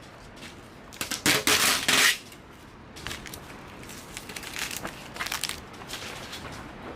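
A loud rustling, scraping noise lasting about a second, starting about a second in, followed by lighter scrapes and taps: hands and tools working the vinyl wrap on a car door.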